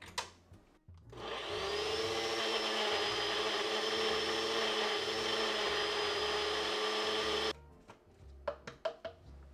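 Electric kitchen blender motor running: it spins up about a second in, runs steadily at one speed, and cuts off suddenly after about six and a half seconds.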